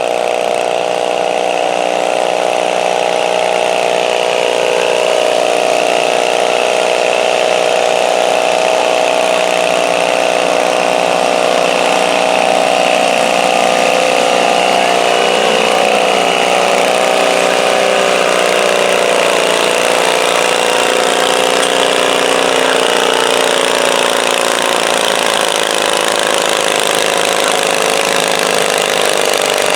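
Stock garden tractor's small gasoline engine running hard under load as it pulls the sled, with its pitch wavering slightly.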